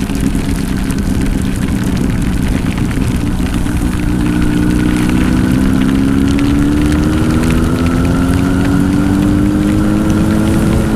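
Honda CBR1000 inline-four motorcycle engine with a Two Brothers exhaust, riding steadily, then slowly rising in pitch from about four seconds in as the bike gains speed, over rain and wind noise on the helmet microphone.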